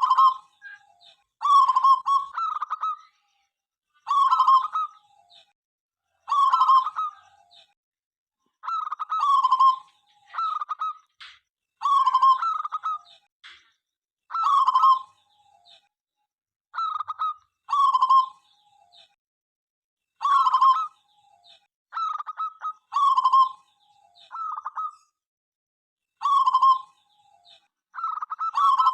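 Zebra dove (local perkutut) cooing: the same short, stuttering coo phrase repeated about every two seconds, with a quick run of rapid notes near the end.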